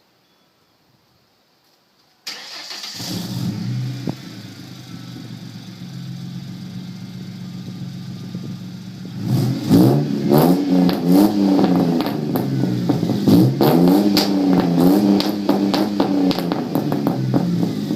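1999 Ford Mustang's 3.8-litre V6 starting about two seconds in and idling through a straight-piped MagnaFlow exhaust with no catalytic converters. From about halfway it is revved repeatedly in short blips, rising and falling in pitch.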